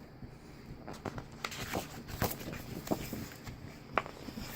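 Paper sheets being handled: irregular soft taps and rustles, with one sharper tap near the end, over a faint steady fan hum.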